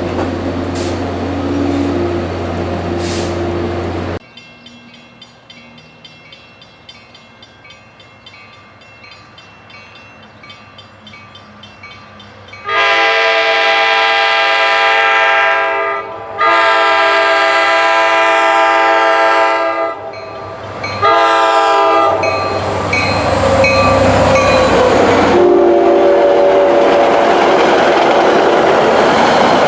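A commuter train's diesel locomotive horn blows two long blasts and a short one, then a further blast as the train arrives, the grade-crossing pattern. The train then passes close by, with loud, steady rail and engine noise.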